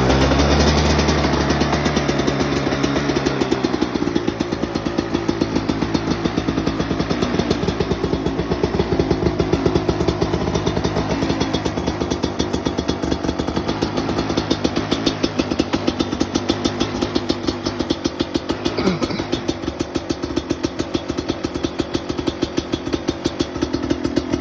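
KTM EXC 250's single-cylinder two-stroke engine running just after a cold start, following two months unused. It beats with an even pulse, a little louder for the first few seconds, then settles to a steady idle.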